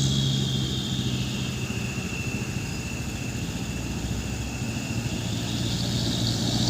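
Heavy truck's diesel engine running at low revs. It eases off after the start and builds again near the end, with a faint high whine over it.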